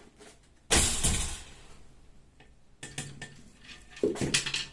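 Hard plastic spinning-ring toy parts clattering and clinking: a sudden sharp clatter about a second in that trails off, then more rattling and clicking about three and four seconds in.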